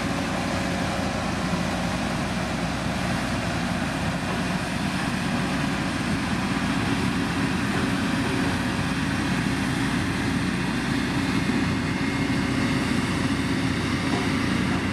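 Heavy motor grader's diesel engine running steadily under a constant load.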